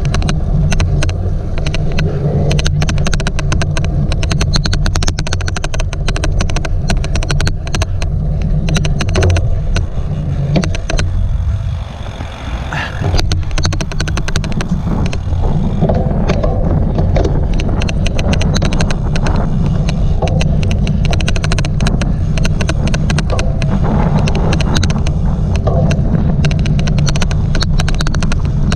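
Loud, rapid clicking that runs without a break over the low rumble of a cyclocross bike being ridden over rough ground; the clicking is the odd noise on this recording. The sound drops briefly about twelve seconds in.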